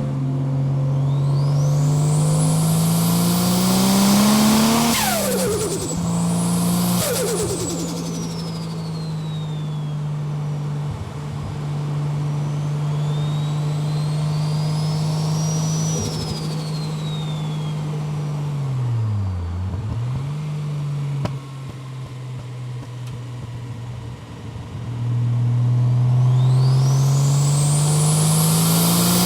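Datsun 240Z's turbocharged GT-R engine being driven hard. The revs climb, drop sharply about five seconds in, hold steady, dip and recover just before twenty seconds, then climb again near the end. High whistling sounds rise and fall above the engine note.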